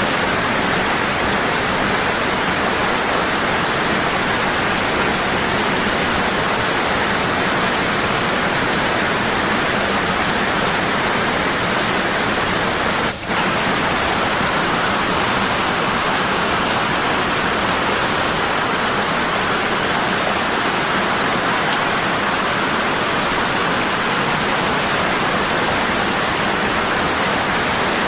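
Waterfall: water falling heavily and constantly, a steady rushing with one very brief dip in level about halfway through.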